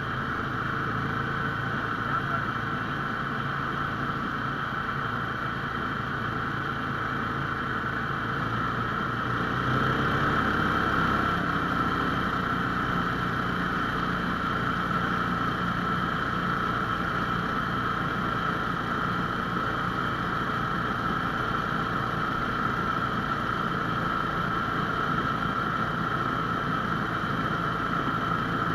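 Lifan 17 hp single-cylinder engine of a Laika-2M motorized towing sled running steadily under way. It gets louder and deeper about ten seconds in and then holds that pitch.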